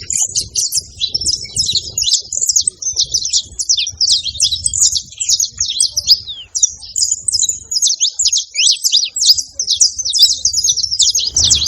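Saffron finch singing: a fast, unbroken run of high, sharp chirps with quick pitch sweeps, over a faint low rumble.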